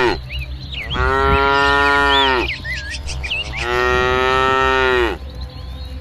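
Cattle mooing: the end of one moo right at the start, then two long moos, one about a second in and one about three and a half seconds in. Each moo holds a steady pitch and drops away as it ends.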